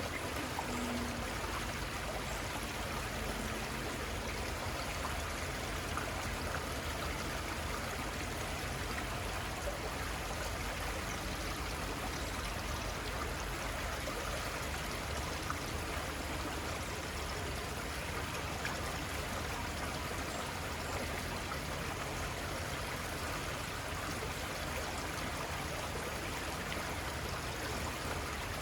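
A small river flowing, a steady, unbroken rush of moving water.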